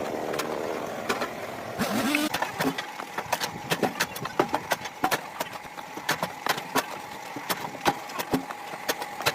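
An engine running steadily, with many irregular sharp cracks and knocks over it, about three a second.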